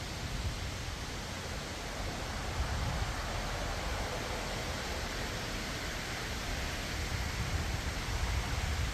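Strong gusty wind: a steady rushing hiss with irregular low buffeting on the microphone.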